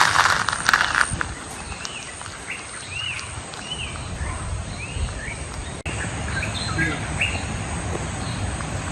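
A bird calling over and over with short chirps that rise and fall, about ten of them over five seconds, above a steady high insect hum. A short loud noisy burst comes in the first second.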